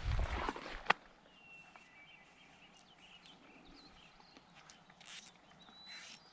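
Footsteps squelching across boggy ground, with a rumble and a sharp click about a second in, then a few quieter steps. Faint thin bird whistles sound in the gaps.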